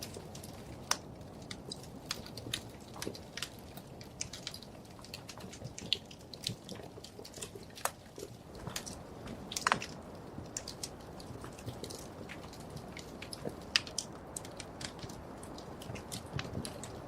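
Wood fire crackling in a fireplace: irregular sharp pops and snaps over a steady low rush of flame, with a louder pop about ten seconds in.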